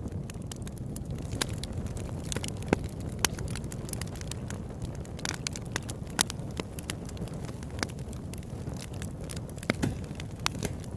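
Wood campfire burning: a steady low rumble of flames with irregular sharp crackles and pops, a few louder pops among them.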